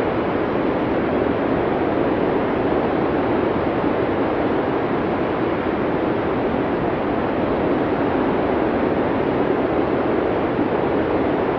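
Blizzard wind ambience: a steady, even rush of wind with no gusts or breaks.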